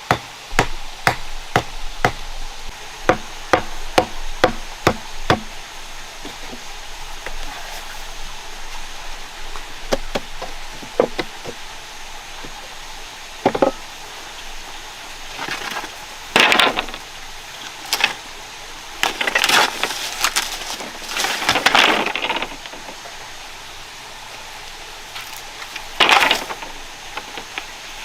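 A tool chopping or striking wood in a steady run of sharp knocks, about two a second, for the first five seconds or so. After that come a few scattered knocks and several longer scraping or rustling noises.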